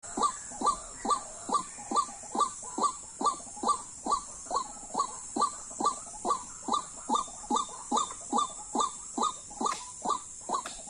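White-breasted waterhen calling: a steady, monotonous series of short upward-sweeping notes, a little over two a second, over a constant high hiss.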